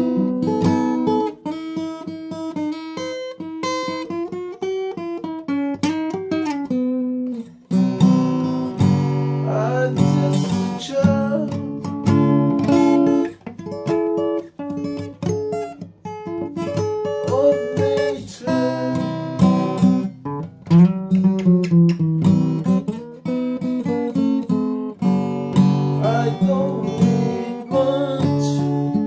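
Acoustic guitar music: strummed and plucked chords changing every second or two.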